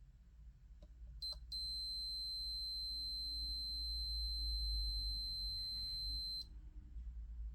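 Digital multimeter's continuity beeper: two brief chirps, then one steady high beep lasting about five seconds that cuts off suddenly. The beep sounds while the probes touch a low-resistance path.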